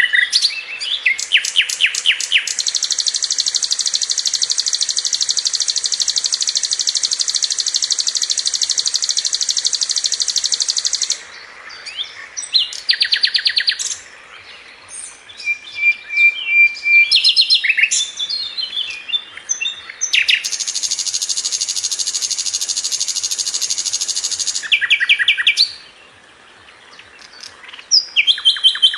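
Sikatan londo (brown-chested jungle flycatcher) singing: two long, rapid, high trills of fast-repeated notes, each held for several seconds, with short chattering and whistled phrases between them.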